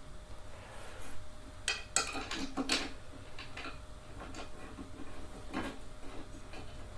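Scattered metallic clinks and knocks from gaming chair parts, screws and a hand tool being handled during assembly. The clinks come in a quick cluster about two to three seconds in, then a few spaced taps.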